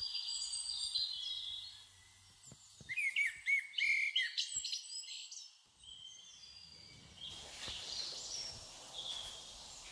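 Songbirds chirping and singing, several short calls and gliding whistles overlapping, with a busier burst of calls a few seconds in.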